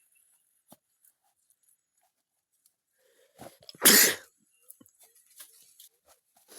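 A person sneezes once, loudly and briefly, about four seconds in, after a near-quiet stretch with a few faint clicks.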